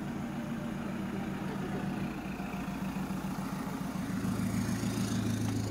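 A vehicle engine idling steadily, with a deeper engine hum getting louder about four seconds in.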